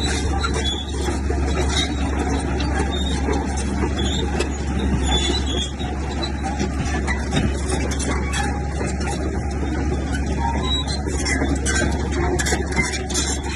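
Komatsu bulldozer's diesel engine running steadily under load, with a string of sharp knocks and clanks in the last few seconds.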